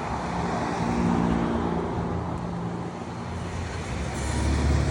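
Road traffic: cars passing by, engine and tyre noise swelling twice, about a second in and again near the end.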